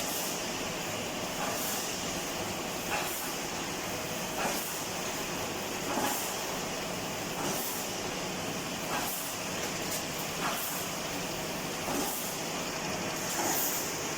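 Automatic wire mesh welding machine running steadily, cycling with a short surge of sound about every second and a half as each cross wire is welded.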